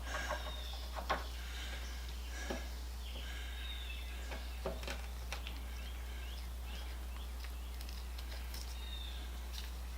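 Quiet workshop handling: scattered light clicks and taps of small parts and tools being handled, over a steady low hum. Faint high chirps come and go.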